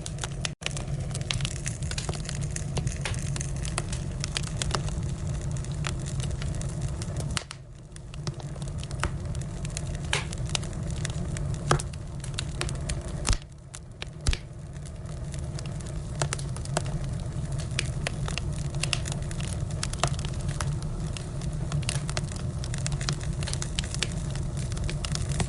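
Firewood burning, crackling with scattered sharp pops over a steady low rumble.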